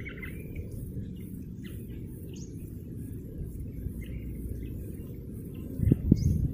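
Short, scattered bird chirps over a steady low rumble, with a few louder low thumps near the end.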